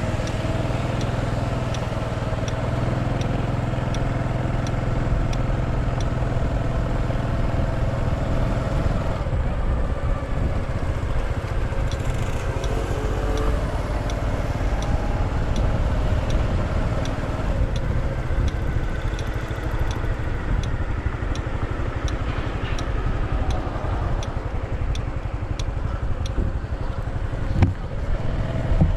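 A motorcycle's engine running with road and wind noise, heard from on the bike as it rides. A faint, regular tick comes roughly every two-thirds of a second for long stretches, and there is a short knock near the end.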